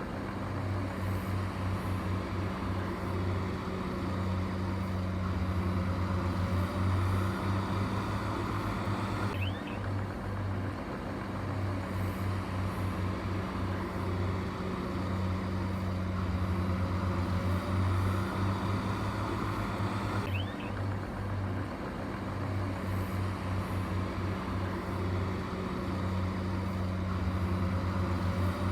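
Heavy machinery engine running at a steady, unchanging drone. The same stretch of sound repeats about every 11 seconds.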